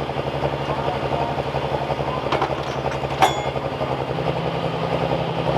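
Pro stock diesel pickup truck engine running with a steady, fast-pulsing drone, its pitch stepping up a little about four seconds in. A single sharp click sounds just after three seconds.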